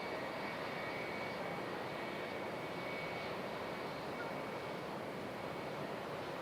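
Jet airliner's engines running: a steady rush of noise with a faint high whine.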